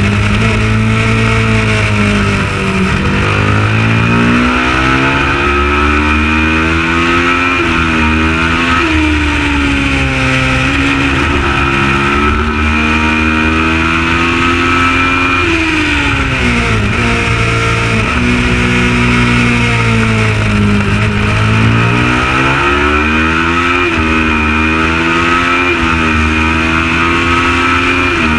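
Kawasaki ER650 parallel-twin race motorcycle engine at racing speed. Its pitch climbs under acceleration and drops sharply at each gearshift, falling away under braking and downshifts a few times before it rises again.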